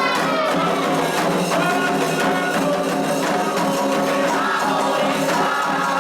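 Candomblé chant for Xangô: voices singing together over steady hand percussion with a jingling, rattling beat.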